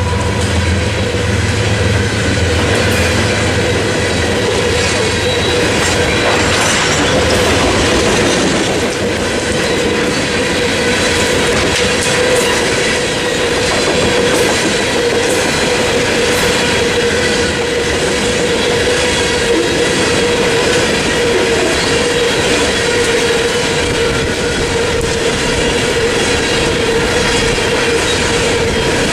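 Freight train of coal hopper cars rolling past at speed: a steady rumble of wheels with clickety-clack over the rail joints and a steady high squeal from the wheels. The low engine hum of the passing locomotives dies away right at the start.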